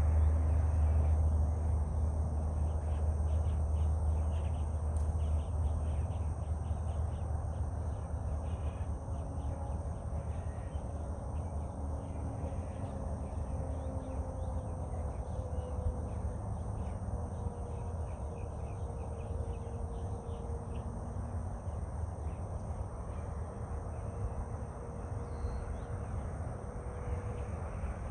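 Outdoor ambience: a steady high insect drone over a low rumble, with a faint hum that drifts slowly in pitch.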